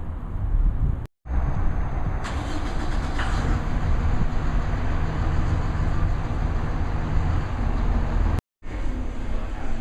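Motor vehicle running along: a steady engine rumble with road and wind noise, cut off abruptly twice by brief silent gaps.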